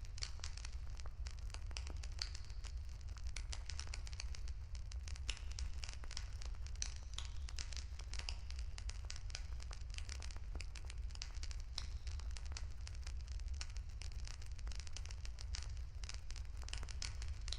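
Wood fire crackling steadily, dense small snaps and pops throughout, over a constant low rumble.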